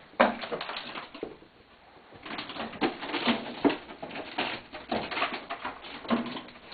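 A cat struggling with a bird it has caught: irregular bursts of scuffling and flapping with short animal calls, after a sharp knock just after the start.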